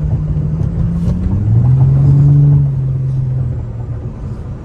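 Infiniti G35's VQ35HR 3.5-litre V6 engine and exhaust under way. The pitch drops about a second in, like a gear change, then it pulls louder for a couple of seconds and eases off after about three and a half seconds.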